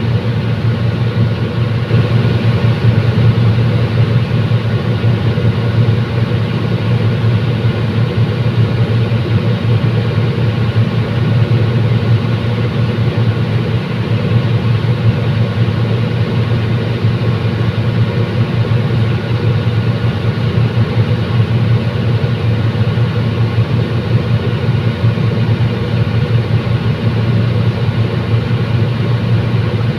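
Diesel commuter train's engine running steadily: an unbroken low drone with a constant pitch.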